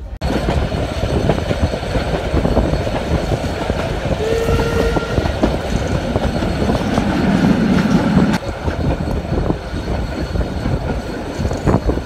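Narrow-gauge steam train running, with a dense rumble and rapid clatter of wheels over the track. A brief tone sounds about four seconds in, and a louder low rumble swells and cuts off near the middle.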